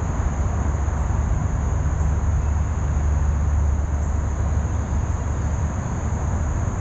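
Steady outdoor creek ambience: an even rushing noise with a low rumble underneath and a constant high-pitched insect drone on top.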